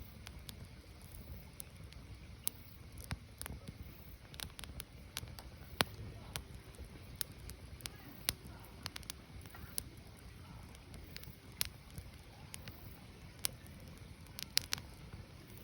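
Firewood burning: irregular sharp crackles and pops over a low, steady rumble of the fire.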